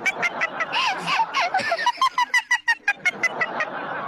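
High-pitched rapid laughter: a run of short giggling pulses, about seven a second, that fades out about three seconds in.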